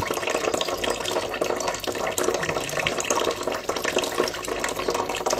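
Water running from a tap into cupped hands, with irregular splashing from a small bird bathing in the water.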